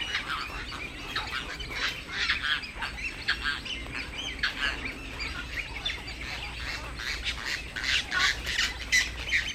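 Many birds calling at once: short squawks and chirps overlapping without a break.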